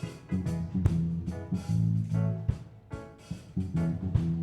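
Band music: a bass line of held low notes with guitar over it, and sharp drum hits about a second and a half apart.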